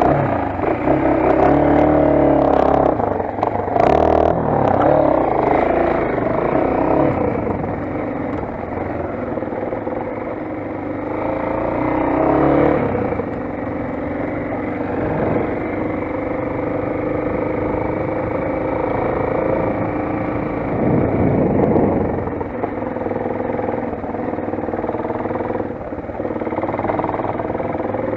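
Motoland XR 250 enduro motorcycle's single-cylinder four-stroke engine running while riding, the revs rising and falling through the first half, then running steadier.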